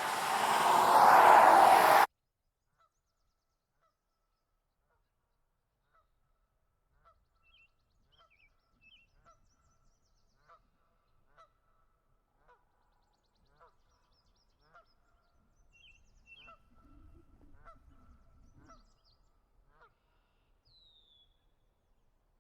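A loud rushing noise swells for about two seconds and cuts off abruptly. Then come faint, short bird calls repeating irregularly about once a second, with a few small high chirps among them.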